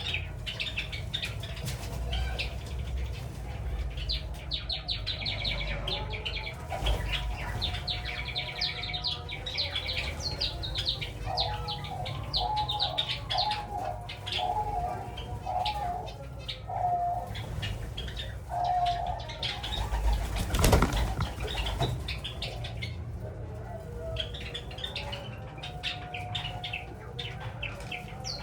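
A colony of Java sparrows and doves: the sparrows chirp in rapid, high runs throughout, with a string of lower dove coos in the middle and bursts of wing flapping, the loudest a sharp flap a little after 20 seconds.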